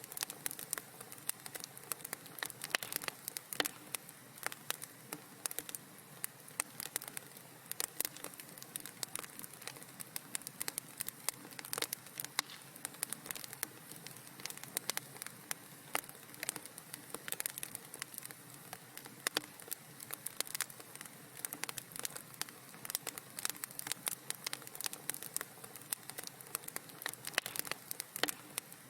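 Wood fire in a fireplace crackling: many small irregular pops and snaps over a faint steady hiss.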